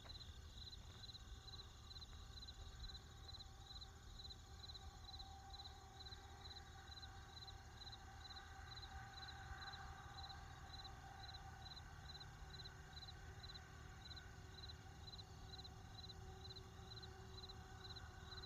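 Faint, high-pitched chirping repeated at an even pace, about two or three chirps a second, over a low background rumble.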